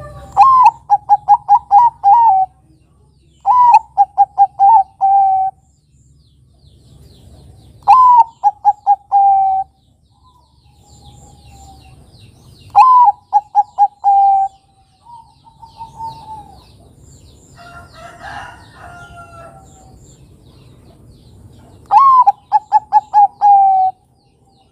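Zebra dove (perkutut) of the Bangkok contest type singing its cooing song. It gives five phrases, each opening on a rising note and running into a quick string of short, evenly spaced coos that sag slightly in pitch.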